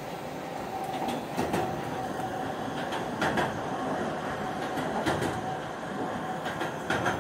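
Seibu Ikebukuro Line commuter train running along the line, heard from inside the car: a steady rumble of wheels on rail with a faint steady tone, and a few sharp clicks as the wheels pass over rail joints.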